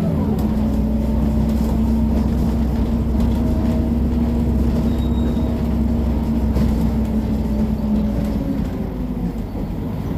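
Mercedes-Benz O500MA BlueTec 5 bus's diesel engine running at a steady pitch under way, heard from on board. Its note shifts and drops away near the end.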